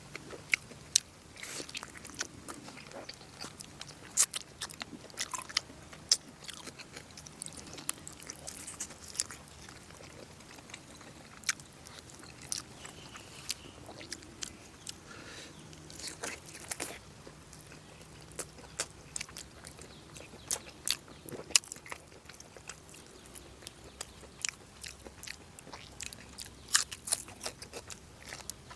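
A person chewing and biting into braised pork close to the microphone, with many irregular sharp mouth clicks.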